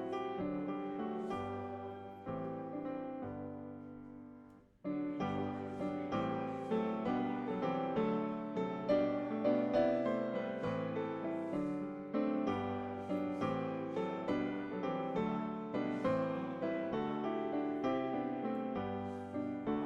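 Piano playing a slow hymn in chords. A held chord dies away about four seconds in, and the playing starts again about a second later and carries on steadily.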